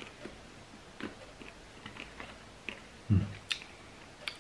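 Someone chewing a small, very hard candy: scattered small crunches and mouth clicks, with a brief hum about three seconds in.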